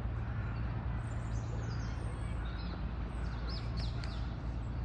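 Small birds chirping, with short high chirps and quick glides, most of them in the second half, over a steady low hum of outdoor background noise.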